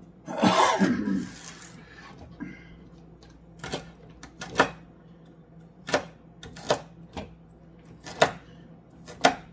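Kitchen knife chopping vegetables on a cutting board: sharp single strokes about once a second, irregular, with a quick double stroke near the end. A short, loud vocal noise comes first, about half a second in.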